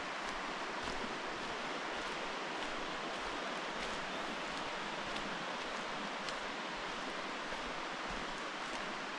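Steady, even rushing noise of the forest surroundings, with faint footfalls of someone walking on the trail about once a second.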